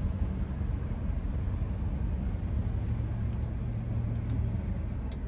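Car engine idling steadily, a low even hum heard from inside the cabin with the driver's window open.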